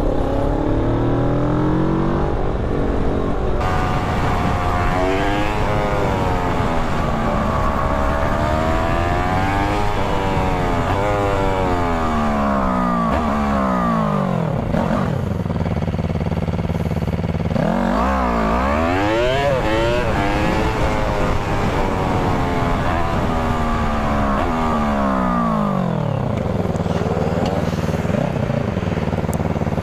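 Motorcycle engine in fast-forwarded riding audio: its pitch climbs and drops back several times as the bike accelerates and slows in traffic, over a steady rush of wind and road noise.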